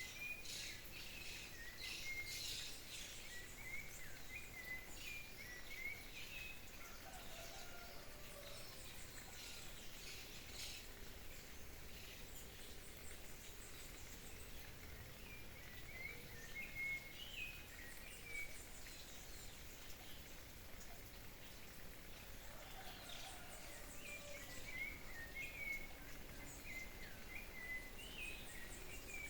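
Wild birds calling in short, repeated chirps that come in clusters, over a steady background hiss.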